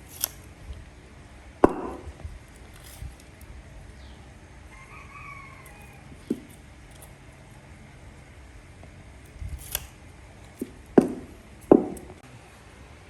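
Scattered sharp knocks and clatters of wood and tools being handled, the loudest near the end. A rooster crows faintly about five seconds in.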